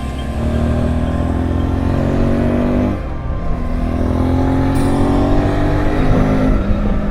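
Motorcycle engine accelerating through the gears: the pitch rises for about three seconds, drops at a gear change, climbs again, and drops at another shift near the end.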